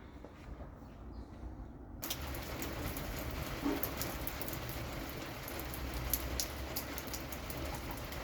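Steady rain falling on a hard surface, with individual drops ticking through it. It cuts in suddenly about two seconds in, after a quieter low rumble.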